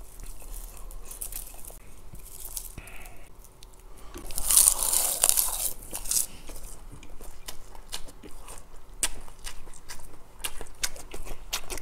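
A crisp crunching bite into a wrap of roasted laver (gim) sheets about four seconds in, followed by chewing with many small crisp crackles.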